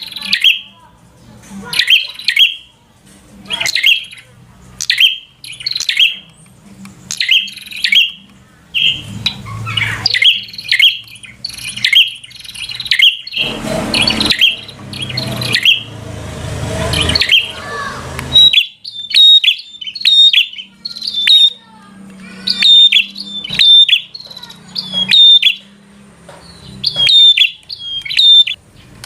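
Prinia (prenjak) singing: loud, sharp chirps repeated about once a second, coming faster and closer together in the second half. A low rumbling noise runs under the song for a few seconds midway.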